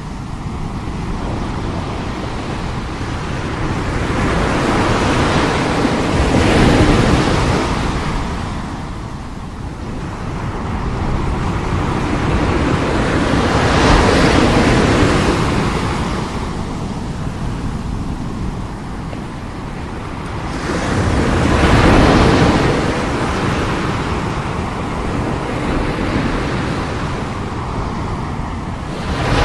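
Heavy surf: strong sea waves breaking and washing in, the sound swelling to a peak about every seven to eight seconds, three times, and ebbing between.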